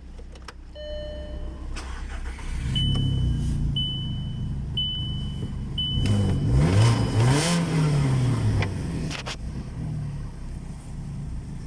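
VW Golf 5's 1.4 FSI four-cylinder petrol engine starting up about two and a half seconds in, idling, then revved up and down around the middle before settling back to idle. A dashboard chime sounds near the start, followed by four short high beeps about a second apart.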